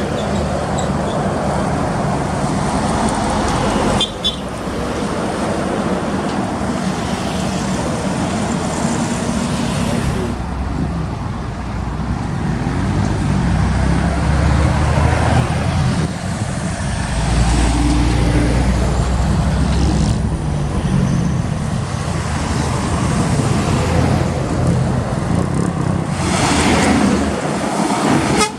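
Trucks' diesel engines running on the road amid traffic noise, with a vehicle horn sounding at times and some voices; the sound changes abruptly several times.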